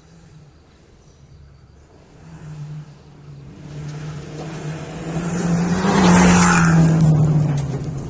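Rally car approaching at speed and passing close by. Its engine note builds to a peak with a rush of tyre and wind noise about six seconds in, then drops in pitch and fades as it goes away.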